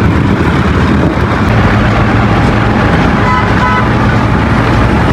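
Road traffic with a steady engine rumble, and two short horn toots about three seconds in.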